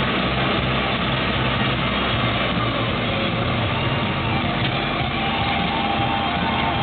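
Crane truck's diesel engine running steadily, its low note shifting about three seconds in.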